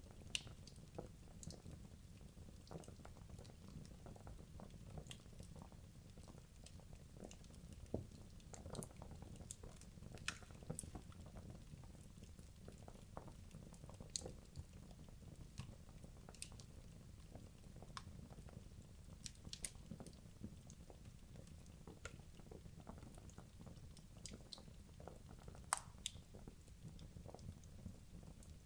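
Wood logs burning in a fireplace, crackling: irregular sharp pops and snaps over a low, steady rumble. One louder pop comes near the end.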